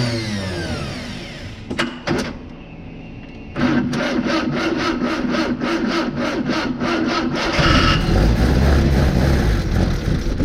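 Car engine with its pitch falling away as the revs drop at the start, two sharp knocks about two seconds in, then a steady run with a fast, even pulsing from about three and a half seconds in.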